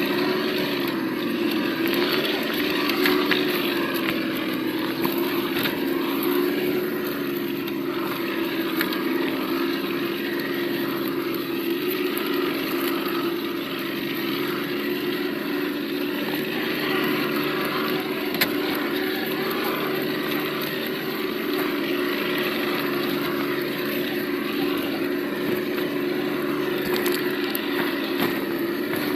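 Simulated engine note from the sound module of an Absima Yucatan 1:8 RC crawler, playing steadily through its small speaker as the truck drives, with the pitch dipping briefly about a second in.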